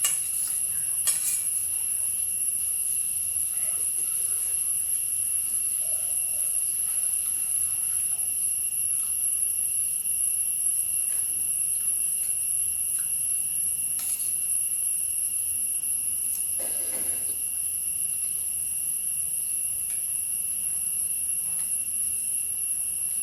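Steady high-pitched insect drone, with a few faint taps and clicks over it.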